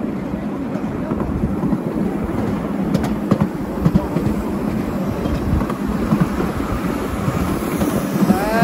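Miniature ride-on train running along its track, with a steady rumble and irregular clatter of wheels on the rails.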